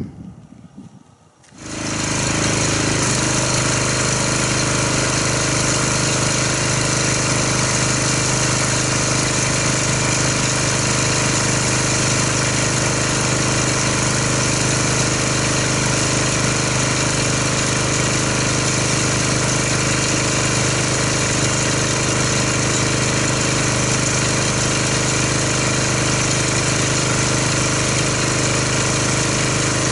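Pressure washer running steadily, coming in suddenly about two seconds in and holding an even pitch throughout.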